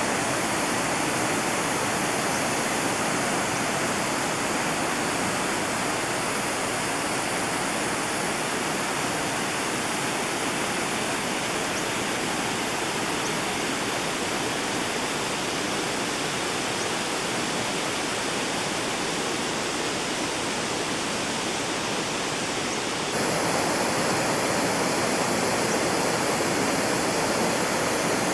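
Rushing water of a forest stream: a steady, even rush that steps up a little in loudness near the end.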